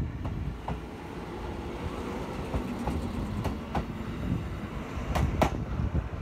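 Kotoden Nagao Line electric train running on the rails: a steady low rumble with scattered clicks of wheels over rail joints, ending in a loud pair of clicks near the end.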